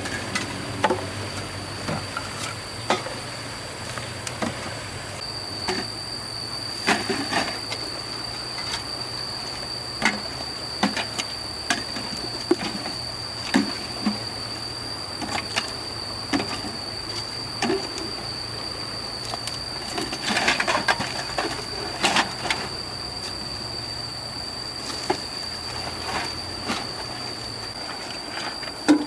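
Irregular knocks and clatter, a few at a time, over a steady high-pitched drone and a low hum.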